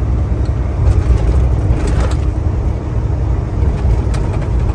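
Semi truck under way at road speed: a steady low rumble of engine and road noise.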